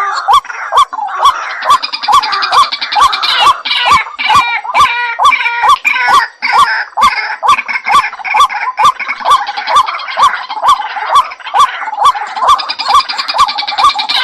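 White-breasted waterhen calling: a monotonous, steadily repeated note, about two to three a second, with higher chattering calls over it in places. It is a lure call, the bird's call played back to draw the birds in.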